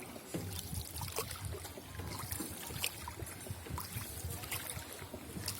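Water splashing and trickling around a hand-rowed tourist boat as the oars dip and pull, with irregular small splashes and drips.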